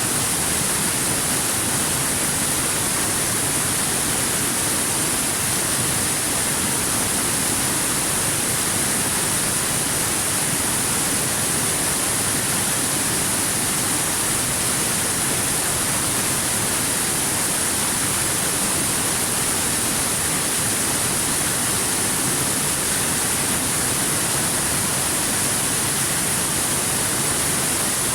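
Water rushing over rocks: a steady, even rush with a strong high hiss and no breaks.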